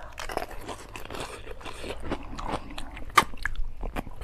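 Close-miked chewing of a whole pani puri: the crisp fried shell crunches and crackles wetly as it is bitten and chewed, with one sharp crack about three seconds in.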